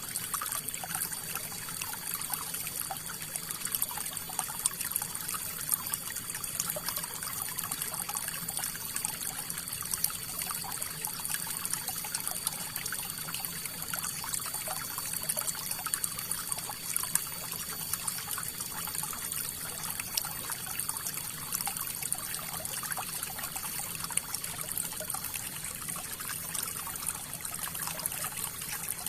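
River water flowing, a steady rush with many small splashes.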